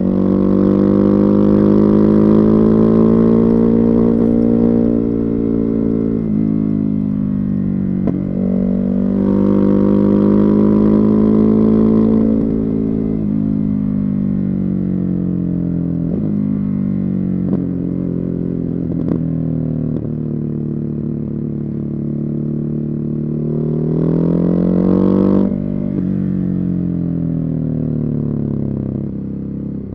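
Ducati Hypermotard 950's Testastretta 11° L-twin engine with a Termignoni exhaust, pulling under throttle. Its note climbs three times over several seconds, and between the pulls the pitch drops and falls away as the throttle closes and gears change.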